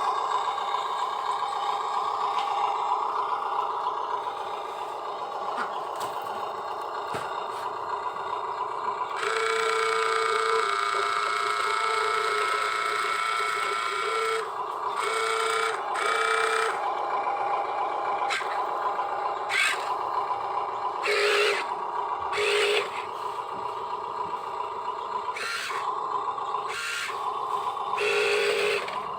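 Electric motors and gearboxes of radio-controlled construction models whining as they work. A pulsing tone runs for several seconds in the middle, and the motors surge in short bursts near the end.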